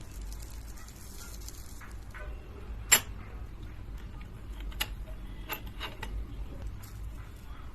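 Kitchen utensils knocking and clicking: one sharp loud click about three seconds in, then several lighter clicks, over a low steady hum.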